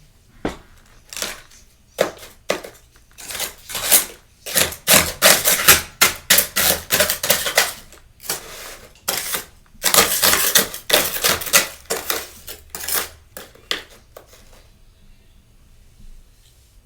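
Close, crisp crunching of freezer frost, many quick crackling bursts in two dense runs, which die away about two seconds before the end.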